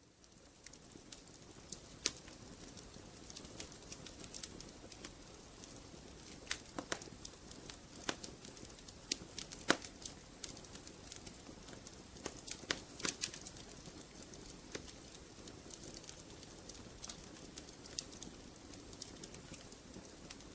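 Wood fire crackling in a fireplace: irregular sharp pops and snaps, a few of them loud, over a soft steady hiss.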